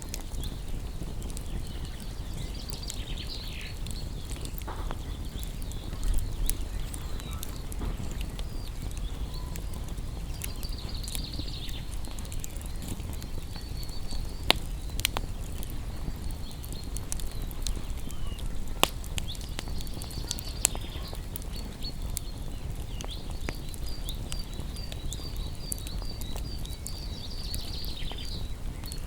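Wood fire burning with a steady low rumble and scattered sharp crackles and pops. High chirping calls come and go in the background.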